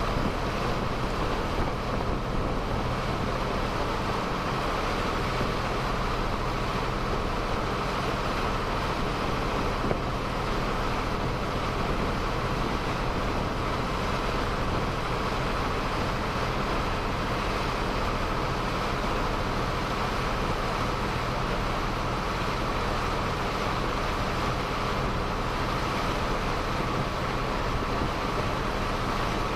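Boat engine running steadily at constant speed: an even drone that does not change.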